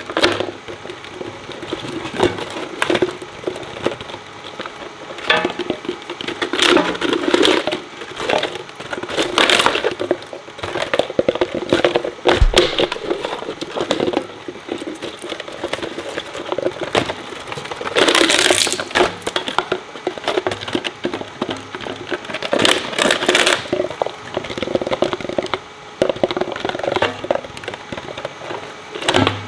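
Industrial shredder tearing through hard plastic: constant irregular cracking and snapping over the steady hum of its motor, with several louder crunching bursts as pieces break.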